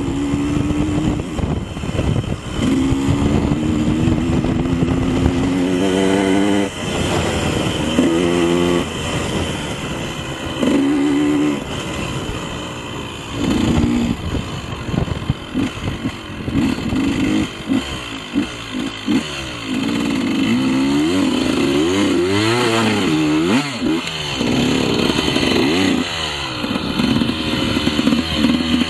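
KTM 150 two-stroke dirt bike being ridden off-road, its engine revving and climbing in pitch through the gears, then rising and falling in short bursts of throttle.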